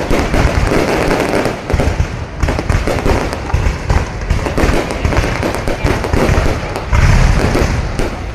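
An aerial fireworks display bursting without a break: dense, overlapping bangs and crackle with no gap between them.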